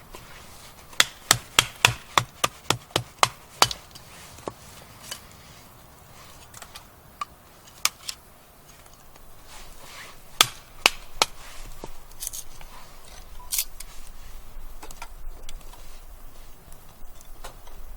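Batoning firewood: a wooden baton knocking on the spine of a Nessmuk knife driven into a split of wood. A quick run of about ten knocks, three or four a second, then a few single knocks spaced out.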